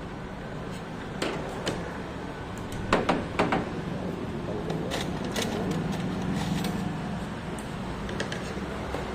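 A handful of sharp knocks and clatters over a steady background hum, loudest in a quick cluster of three about three seconds in.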